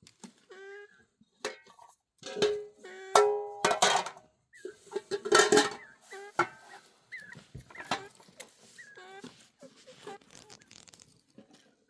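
A dog whimpering and yelping in short, high, wavering cries, with a louder burst of clattering and rustling in the middle.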